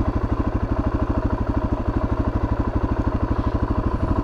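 Suzuki DR-Z400S single-cylinder four-stroke dirt bike engine idling steadily with a rapid, even beat.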